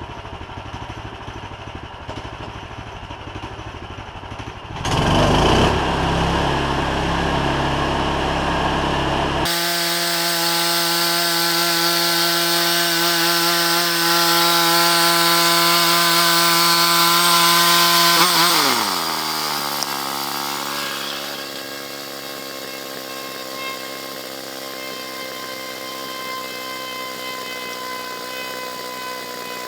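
Gas-engine band sawmill running and cutting wood. It jumps louder about five seconds in, runs at a steady high pitch with a hiss from the blade, then its pitch falls away around two-thirds through and it settles into a lower, quieter run.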